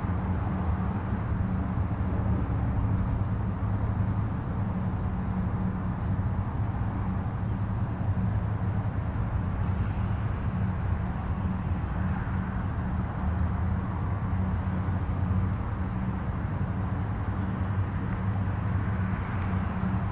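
Distant highway traffic: a steady low rumble of many passing vehicles blended into one continuous wash of tyre and engine noise, swelling and easing slightly as traffic passes.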